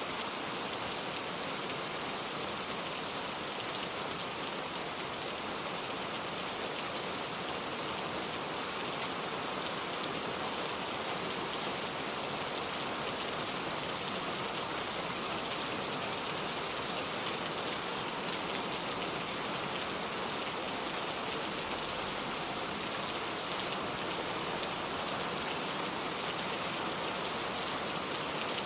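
Heavy rain pouring down steadily, an even hiss of many drops with no thunder or changes.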